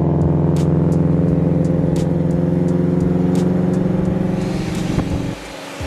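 A car engine drones at a steady cruising pitch on the move. The sound drops off abruptly about five and a half seconds in.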